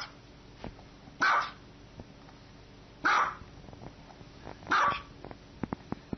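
Small dog barking: three sharp, high barks, one about every two seconds.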